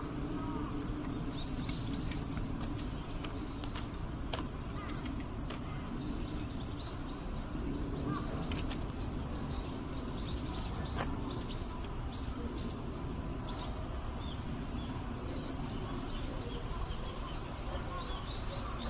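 Small birds chirping in quick series of short high notes over a steady low background noise, with a few faint clicks.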